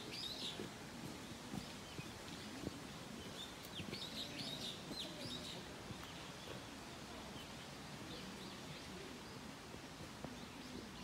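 Small birds calling in short high chirps, in a cluster at the start and again about four to five seconds in, over faint outdoor background noise.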